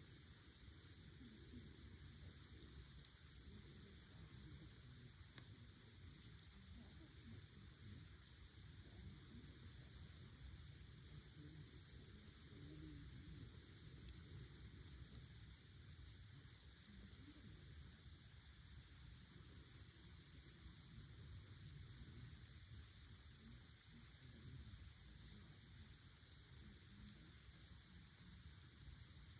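Crickets chirring in a continuous high-pitched drone, with a faint low rumble underneath.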